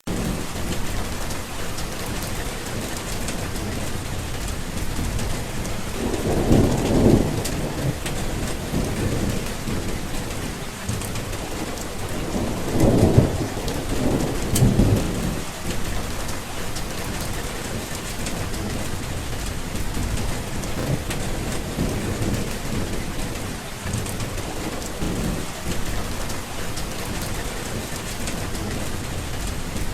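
Steady heavy rain falling, with rolls of thunder rumbling over it: the loudest swells come about six seconds in and again around thirteen to fifteen seconds, with fainter rumbles later on.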